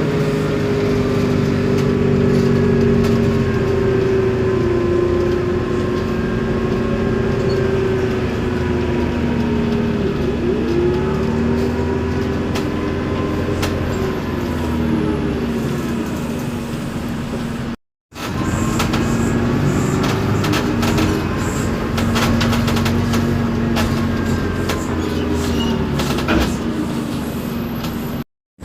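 City bus under way, its MAN D0836 diesel and ZF Ecomat automatic gearbox and differential giving a whine that rises and falls with road speed. The sound cuts out briefly about two-thirds through. After that, rattling clicks from the bus's loose parts come through over the running.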